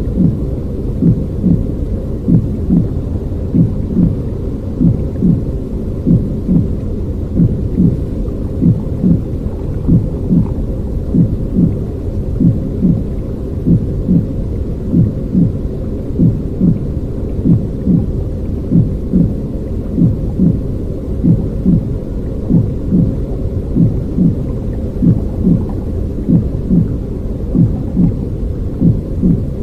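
Womb-style soothing noise for babies: a deep, steady rushing noise with a regular heartbeat-like thump about once a second, some beats doubled.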